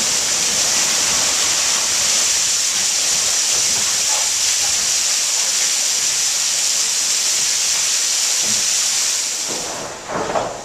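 Water rushing onto a sawmill's water wheel: a loud, steady rush of water that stops suddenly near the end.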